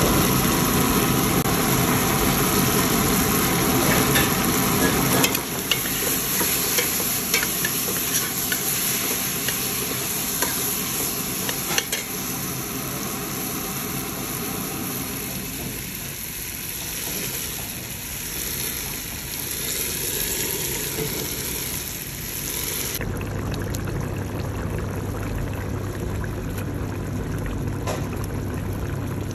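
Chicken in masala sizzling in a stainless steel pot while a metal spoon stirs and scrapes it, with scattered clicks. The sound changes abruptly at about 5 and 23 seconds; near the end the curry gravy is bubbling at a boil.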